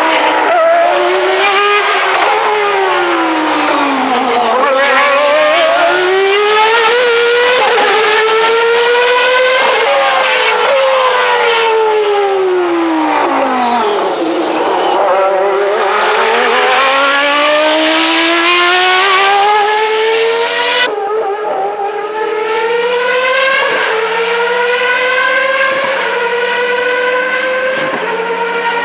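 Renault RS5 3.5-litre V10 in the Espace F1 at racing revs. The pitch falls twice under braking and climbs again under acceptance, and about two-thirds of the way in it rises in short steps as it changes up through the six-speed semi-automatic gearbox.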